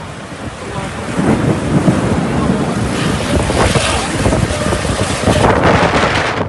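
Wind buffeting the microphone in a rainstorm, a rough rushing noise that grows louder about a second in and stays loud.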